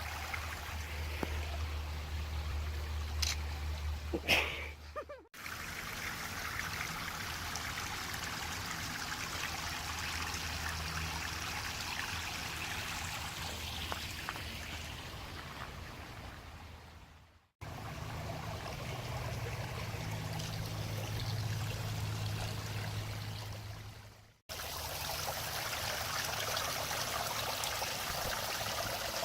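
Small brook trickling over little waterfalls: steady running water, cut off briefly three times, with a few light knocks about four seconds in.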